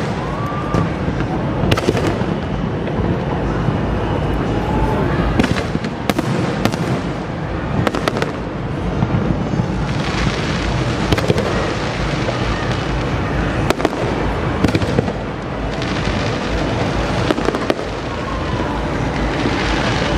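Aerial fireworks bursting: many sharp bangs at irregular intervals, some in quick clusters, over a continuous rumble of the display.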